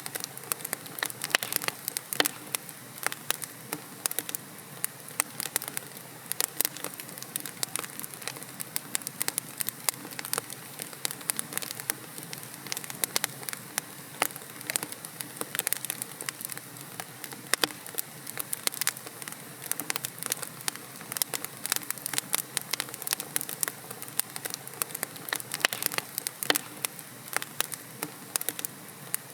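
Wood logs burning in a fireplace, with a steady low hiss under dense, irregular sharp crackles and pops.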